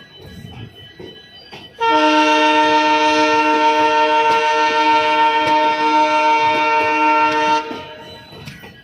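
WDG-3G diesel locomotive's horn sounding one long steady blast of about six seconds, a chord of several tones, starting about two seconds in and cutting off near the end.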